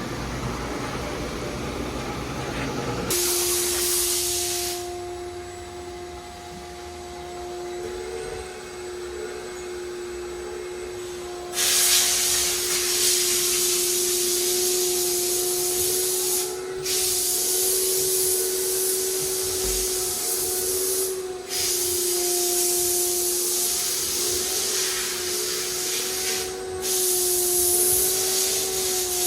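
A motor hums steadily from about three seconds in, under long bursts of a hissing jet that is switched on and off several times, typical of detailing equipment blowing or spraying during a cleaning job.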